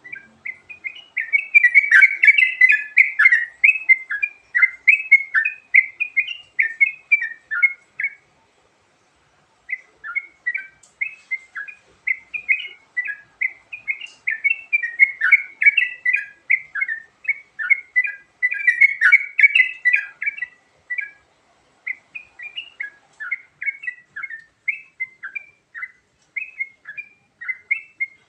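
Yellow-vented bulbul singing: a fast, continuous run of bubbly chirping notes, with one pause of about a second and a half some eight seconds in.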